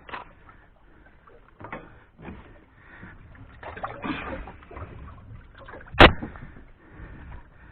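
Fishing gear being handled aboard a small boat: irregular rustles, bumps and light water sounds, with one sharp knock about six seconds in.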